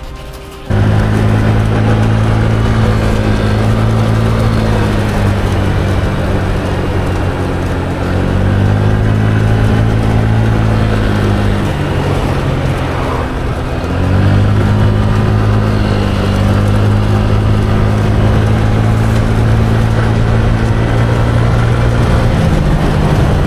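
A vehicle engine running, its pitch dropping and rising again a couple of times as the speed changes. It starts and cuts off abruptly.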